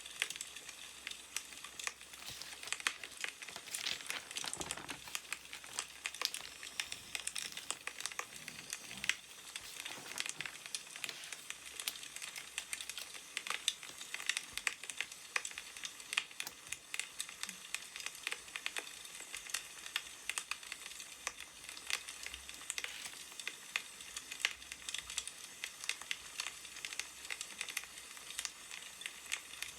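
Wood fire crackling steadily with many small pops, and a few brief rustles of newspaper pages being handled.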